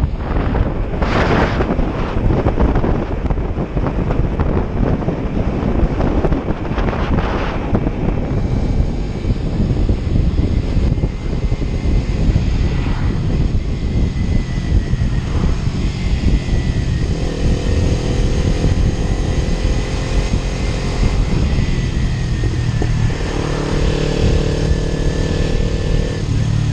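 Kawasaki Ninja 300 parallel-twin engine running on the road, under heavy wind noise on the microphone. Gusty surges come in the first few seconds. A steadier engine note stands out in the second half.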